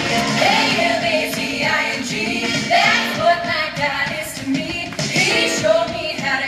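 Upbeat pop-style song with a woman's lead vocal over a steady drum beat.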